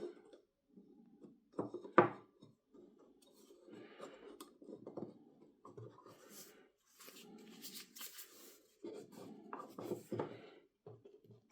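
Hand-work sounds: irregular rubbing and scraping strokes with light clicks, and one sharp knock about two seconds in.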